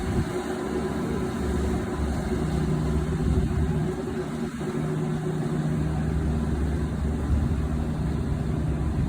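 Harbour ferry's engines running with a steady low drone and a constant hum, as the ferry pulls away on departure.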